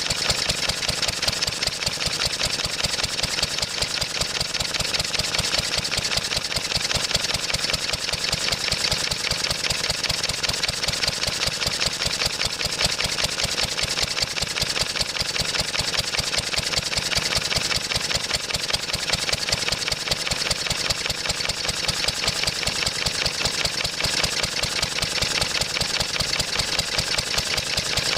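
1954 Wolseley WD8 single-cylinder stationary engine running steadily under belt load, its firing beats rapid and even throughout.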